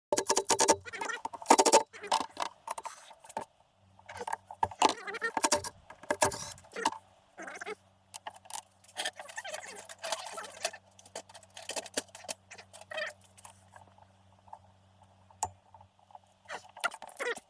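Small metal engine parts and tools clinking and rattling as they are handled, in quick irregular bursts, over a faint steady hum.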